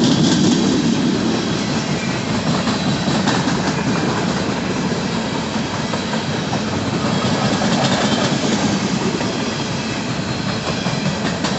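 Empty coal hopper cars of a freight train rolling past, steel wheels running on the rails with a steady rumble and faint high tones from the wheels.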